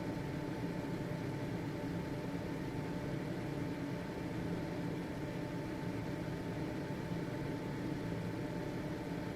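Household exhaust fan running steadily: an even motor hum and airy rush with a faint constant whine.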